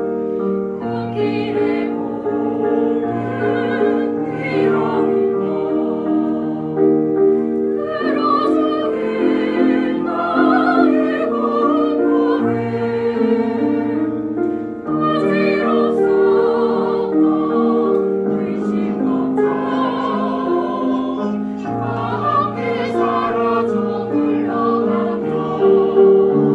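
A choir singing in harmony, the voices holding long sustained notes.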